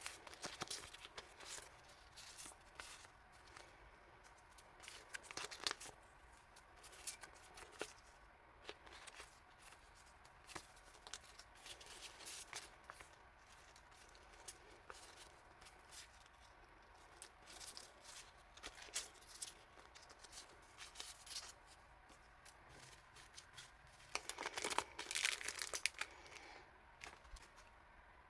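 Packaging being handled and unwrapped by hand: repeated crinkling and tearing rustles with small clicks, and a longer, louder stretch of rustling near the end.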